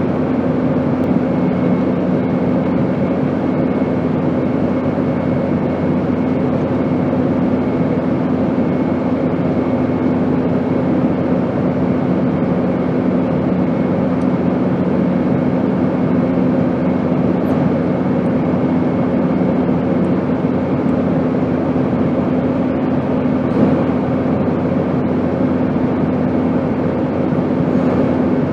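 Airplane in flight: a steady broad rushing drone with a few steady hum tones under it, one of the lower hums dropping out about two-thirds of the way through.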